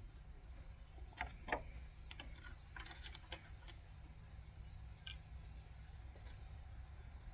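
A few faint clicks and light knocks of hands working on parts of a stopped engine, such as connectors being plugged back in. There are two about a second and a half in, a quick cluster around three seconds, and one more near five seconds.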